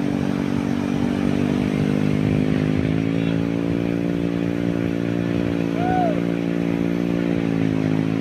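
Small engine of a boat-hauling winch running steadily under load as it pulls a fishing boat up the shore. Its pitch rises a little about three seconds in and drops near the end. A short whistle-like call rises and falls about six seconds in.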